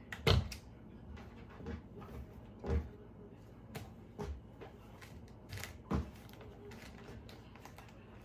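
Scattered knocks and clicks of household handling, such as cupboard doors and kitchenware, about eight separate strikes, the sharpest right at the start.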